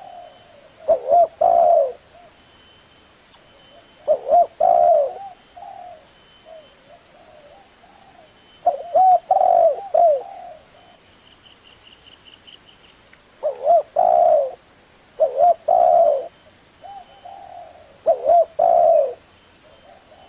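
Spotted dove cooing: short phrases of low coos repeated every few seconds, with pauses between them.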